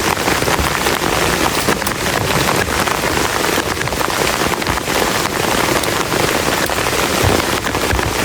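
Heavy rain falling steadily on a camp shelter: a dense, unbroken patter of many drops striking the cover.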